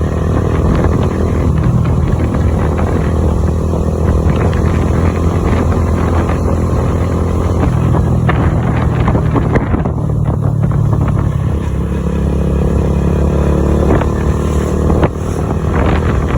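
An engine running close by, with a steady low drone whose pitch shifts slightly every few seconds over a rushing noise.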